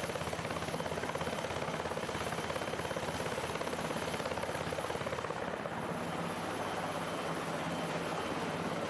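Helicopter flying, its rotor beating in a rapid, even pulse.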